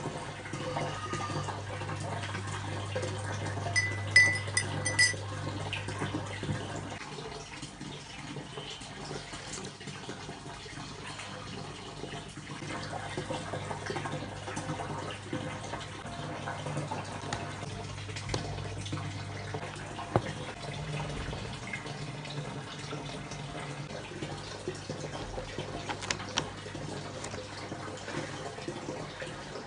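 Household water sounds, trickling and splashing as at a sink, over a steady low hum, with a brief run of high, evenly pitched beeps about four seconds in.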